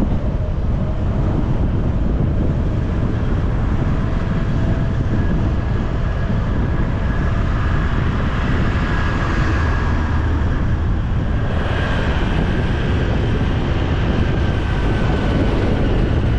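Motorcycle running steadily at speed, a continuous rumble of engine and road noise.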